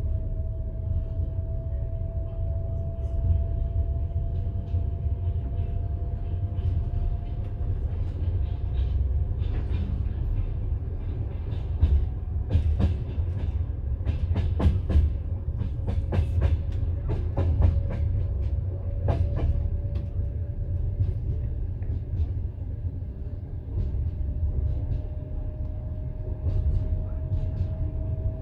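Passenger train carriage heard from inside: a steady low rumble of the running train, with a run of sharp wheel clicks over rail joints in the middle, and a faint steady tone throughout.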